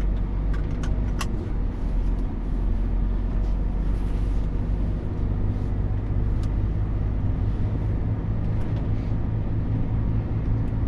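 Next-generation Scania truck's diesel engine running steadily under way, heard from inside the cab as a low, even hum. A few light clicks in the first second or so.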